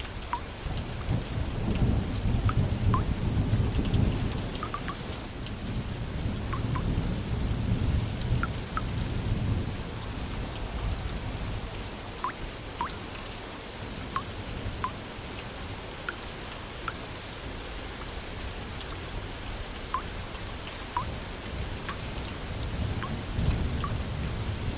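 Thunderstorm: steady rain falling, with thunder rumbling low and long, loudest over the first ten seconds and swelling again near the end. Scattered short plinks of drops land throughout.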